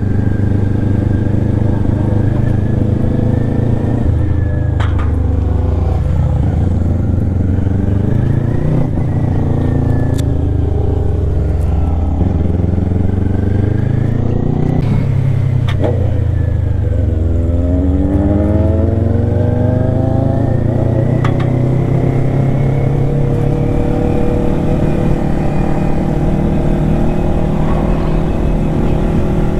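Kawasaki Ninja 400's parallel-twin engine under way, its pitch rising and falling several times as the rider accelerates and eases off, with one long climb in revs a little past the middle.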